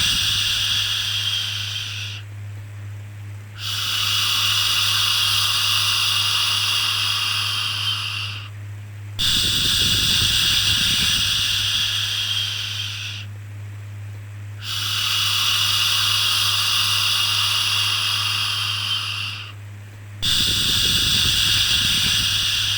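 Repeated long shushing 'shhh' sounds of the kind used to calm a baby, each held about four to five seconds with a short break before the next, five in a row. A steady low hum runs underneath.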